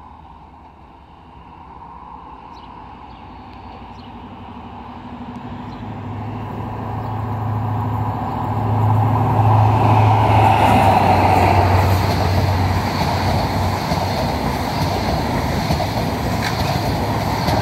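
Virgin Trains East Coast HST with Class 43 diesel power cars and Mark 3 coaches approaching and passing at speed. A steady diesel engine drone grows louder over the first half, then the rush and rumble of the coaches passing close holds to the end.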